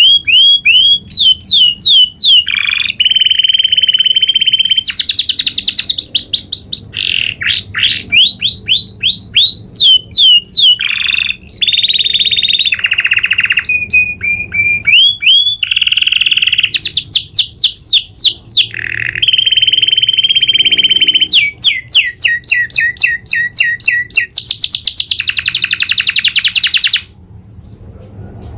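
Domestic canary singing a long rolling song: fast trills and runs of quickly repeated high notes, changing phrase every second or two, with a brief break near the end.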